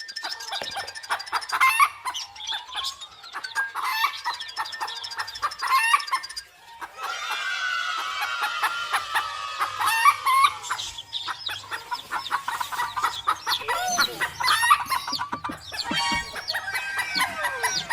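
Chickens clucking and roosters crowing, the sound changing abruptly a few times as one short clip follows another.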